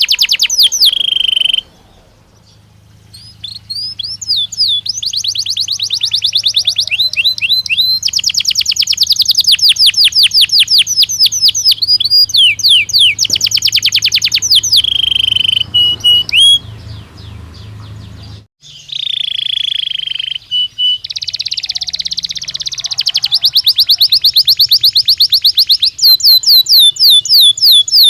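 Belgian canary (domestic canary) singing: long fast trills of repeated high notes in phrases, with a short pause about two seconds in and another brief break a little past halfway.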